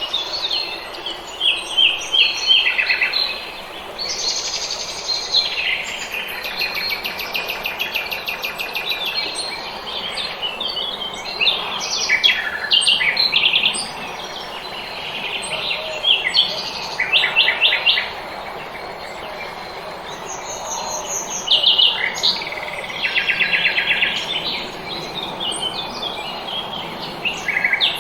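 Several small songbirds singing at once in a spring dawn chorus: overlapping rapid trills and short chirps, over a steady background hiss.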